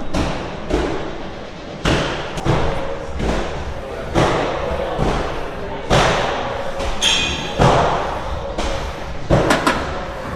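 Gym equipment thuds and clanks: weights set down or knocking together, about six impacts spread unevenly, one followed by a short metallic ring about seven seconds in.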